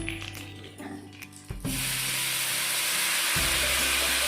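Tempering of mustard seeds, green chillies and curry leaves in hot oil, sizzling. A loud, steady hiss starts suddenly about a second and a half in, over faint background music.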